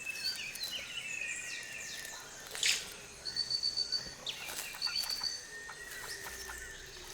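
Rainforest ambience: several birds call with short whistles and trills, over a faint background of insects. The loudest call is a sharp sweeping call a little under three seconds in.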